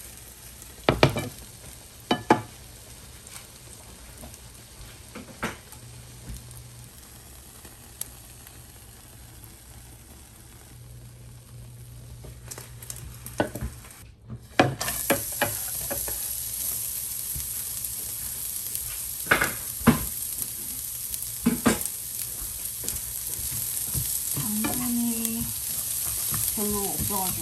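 Food sizzling in a frying pan, with scattered knocks and scrapes of a utensil against the pan. The sizzle is faint at first, then about halfway through it becomes a louder, steady hiss.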